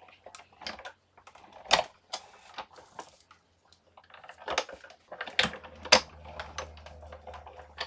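Plastic cutting plates, a thin metal die and paper being handled and restacked for a die-cutting machine: a series of irregular sharp clicks and taps.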